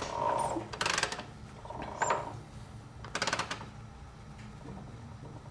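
1951 Vincent Rapide V-twin engine, spark plugs out, being turned over by hand. There are three short bursts of rapid mechanical clicking, and two brief squeaks between them.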